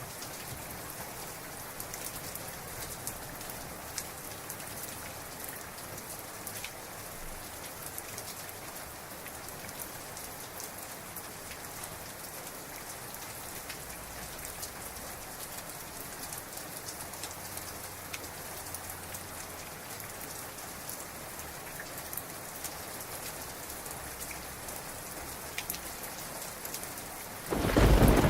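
Heavy rain falling steadily, with scattered sharp drop hits close by. Near the end a sudden loud clap of thunder breaks.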